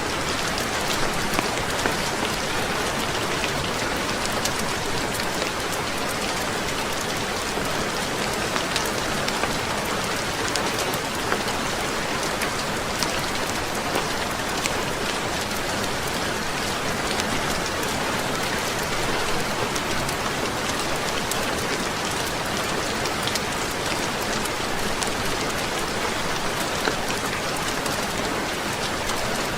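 Steady rain falling on a roof, with scattered sharp ticks.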